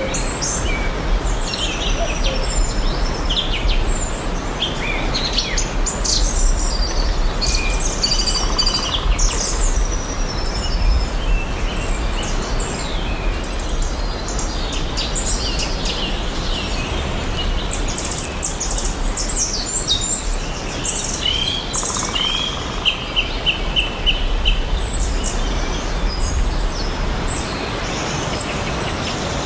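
Several songbirds chirping and singing over a steady background hiss, with a quick run of evenly repeated short notes about two-thirds of the way through.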